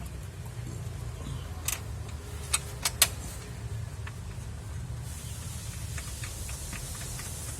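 Toyota Kijang Innova engine running at a steady low idle under tune-up work, with a few sharp metallic clicks from tools about two to three seconds in. About five seconds in, a hiss starts and runs on with a few faint ticks.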